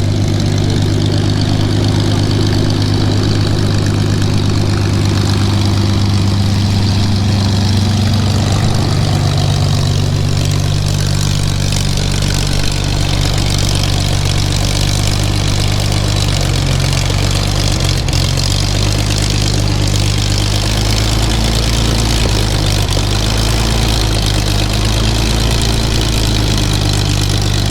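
Supermarine Spitfire's V12 piston aero engine running steadily at low power, a deep even drone with a slight shift in pitch about eight seconds in.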